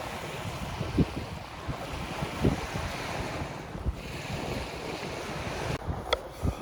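Sea surf with wind buffeting the microphone, broken by a few short low thumps and one sharp click near the end.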